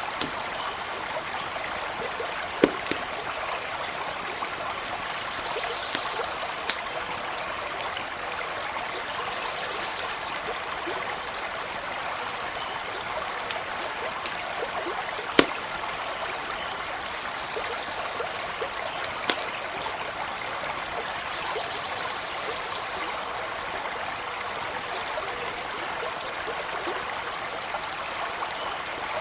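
A stream running steadily, with a wood campfire crackling over it; a handful of sharper pops stand out now and then.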